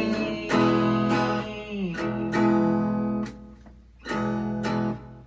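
Acoustic guitar strumming chords in a song, with the singer holding the end of a sung word at the start. The strummed chords ring out and fade about three and a half seconds in, then the strumming starts again.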